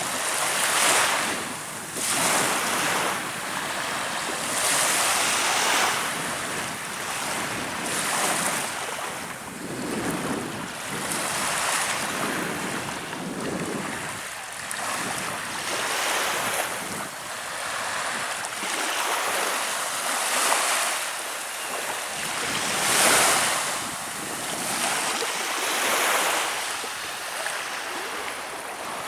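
Small Baltic Sea waves breaking and washing ashore, the hiss swelling and falling every two to three seconds.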